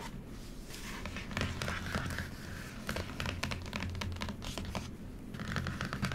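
Stiff paper pages and fold-out flaps of an interactive book being handled, crinkling and rustling with many small taps and scratches.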